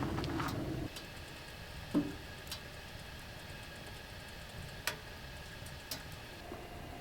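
Birch firewood burning in a small wood stove: sparse sharp pops and snaps over a quiet background, after a brief low rustle at the start.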